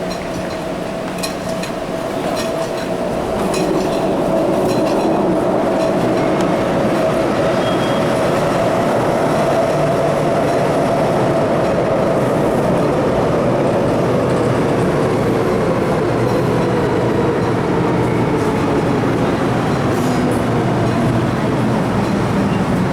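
MTR Metro-Cammell M-Train electric multiple unit running on the Island Line: a steady rumble of wheels and running gear with a motor whine. The sound gets louder about three and a half seconds in, and the whine slowly drops in pitch over the second half.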